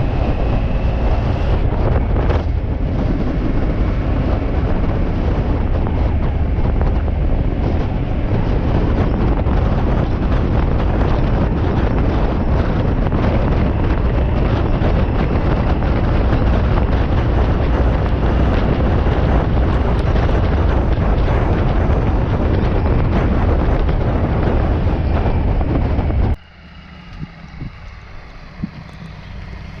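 Heavy wind buffeting on the microphone over a motorcycle engine, as from a bike being ridden at speed. About 26 seconds in it cuts off suddenly to a much quieter, steady engine running.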